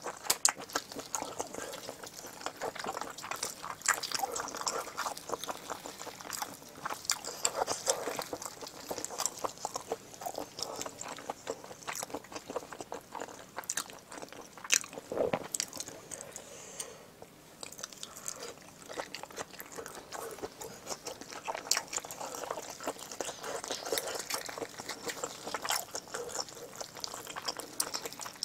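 Close-miked chewing and mouth smacking of someone eating braised pig's trotters (jokbal) in spicy sauce, a dense, irregular run of small sticky clicks and smacks. Rubber-gloved hands squelch as they pull the saucy meat apart.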